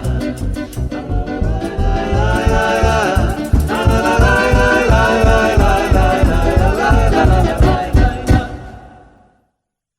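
Folk ensemble closing a Roma folk song: voices singing without clear words over a fast, steady beat, ending on a final accented stroke a little after eight seconds and dying away.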